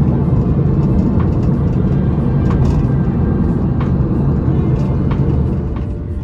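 Loud, steady low rumble with a few faint clicks, easing near the end.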